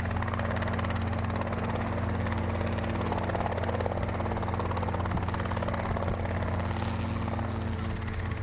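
Helicopter rotor and engine running steadily, the pitch holding without change.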